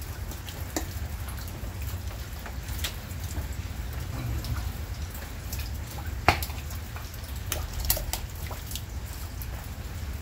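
Steady heavy rain with many separate drops ticking and tapping on nearby surfaces, and a sharper tap about six seconds in.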